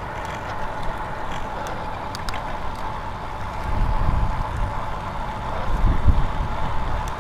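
Wind rushing over the microphone and road noise from a moving bicycle, with a faint steady whine underneath. Heavier wind buffeting swells about four seconds in and again about six seconds in.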